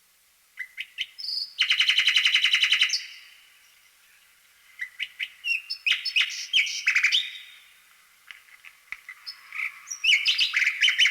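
A small bird chirping in short calls. About two seconds in it gives a fast, even trill lasting about a second, and there are more busy chirps in the middle and near the end.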